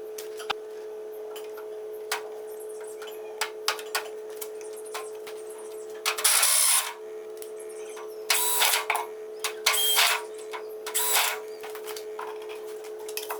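Handwork on materials: scattered clicks and knocks and several short scraping or rasping strokes, over a steady hum.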